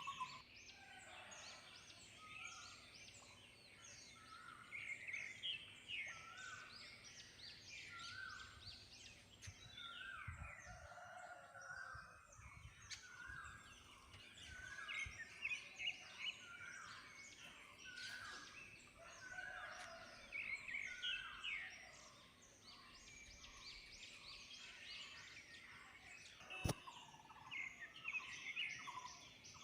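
Dawn chorus of many small birds chirping and singing, with one bird repeating a short note about once a second. A brief low rumble comes midway and a single sharp click near the end.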